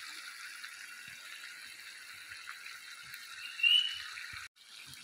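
Chicken pieces sizzling steadily in liquid in a wok, a soft even hiss. A short high whistle cuts through about three and a half seconds in, and the sound drops out for a moment near the end.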